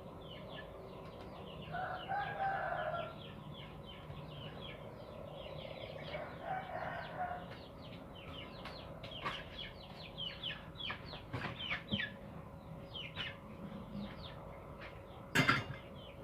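A rooster crowing twice in the background, amid the rapid, continual chirping of small birds. A single sharp click comes near the end.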